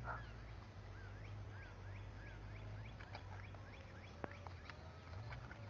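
Birds chirping repeatedly in the background, short rising-and-falling calls, faint over a steady low hum, with one sharp click about four seconds in.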